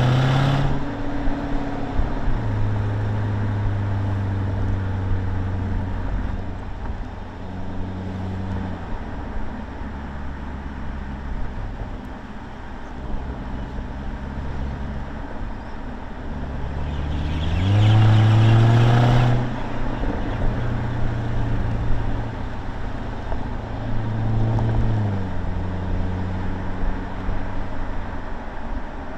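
2020 Jaguar F-Type R's supercharged 5.0-litre V8 under way, heard in the open cabin with the roof down. Its revs climb at the start and it runs steadily at lower revs through the middle. About two-thirds of the way in it pulls hard with a louder rising note, and it rises briefly again near the end.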